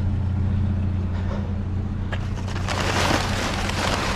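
A vehicle engine idles with a steady low hum. From about two seconds in, loud rustling and scraping of debris being handled joins it.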